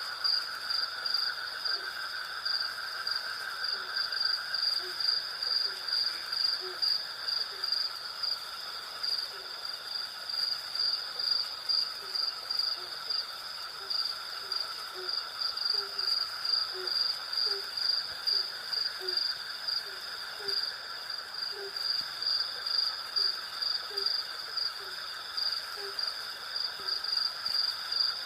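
Night insect chorus of crickets and cicadas: a steady, high, rapidly pulsing trill over a lower continuous drone. Through most of it, a short low call repeats about once a second.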